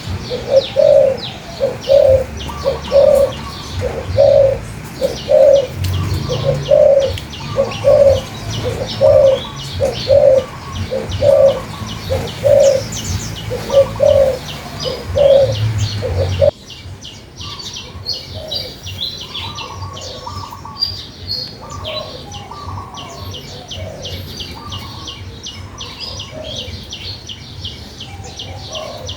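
Birds singing: a low, hooting note repeated about every two-thirds of a second under many short, high chirps. A bit over halfway through, the sound cuts abruptly to a quieter mix of chirping birds without the low note.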